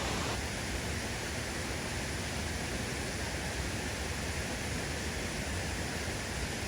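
Steady rushing of a waterfall, an even noise without pauses, its tone shifting slightly about half a second in.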